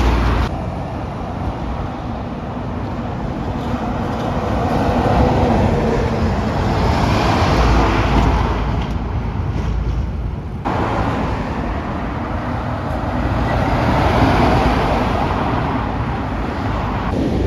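Heavy trucks driving by on a road: tyre and engine noise swells and fades twice. The sound changes abruptly about half a second in and again about ten seconds in.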